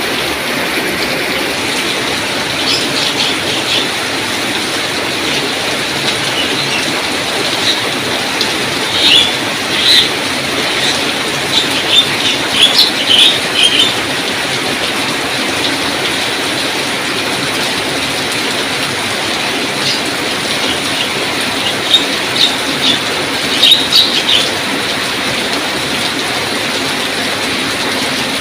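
Heavy rain falling steadily, a dense even hiss, with clusters of short, sharp, higher-pitched ticks standing out a third of the way in and again near three-quarters through.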